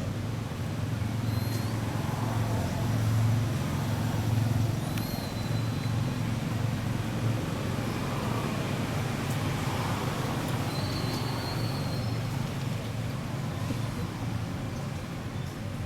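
Steady low engine hum, with a few faint, short high-pitched chirps.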